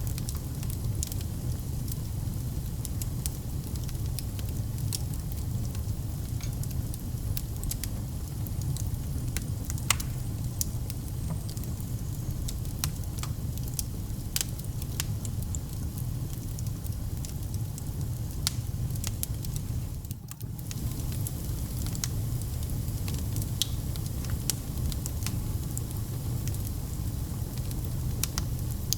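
Wood fire burning in a fireplace: a steady low rumble of flames with irregular crackles and pops, a few sharper than the rest. The sound dips briefly about twenty seconds in.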